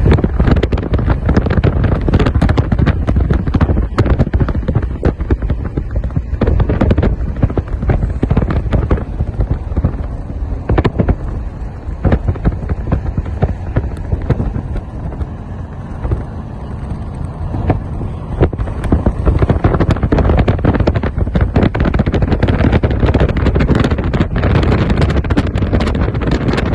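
Wind buffeting the microphone: a loud low rumble with frequent crackling pops, easing slightly midway and then rising again.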